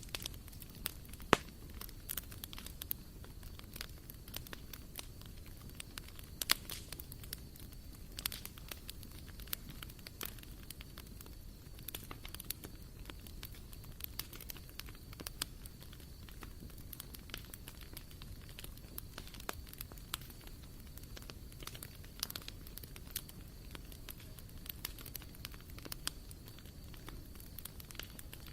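Wood fire burning in a barbecue grill, crackling with irregular sharp pops, the loudest about a second in and again at about six and a half seconds.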